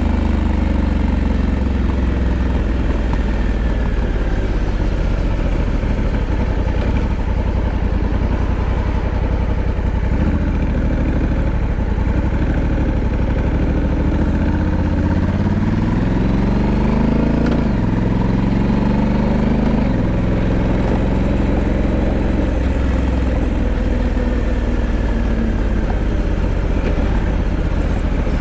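Honda Africa Twin 1100's parallel-twin engine running under way. Its pitch climbs steadily and falls away sharply at two gear changes past the middle, then settles to a steadier note.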